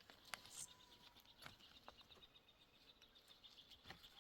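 Near silence, with a few faint clicks and a faint rapid high-pitched ticking in the middle.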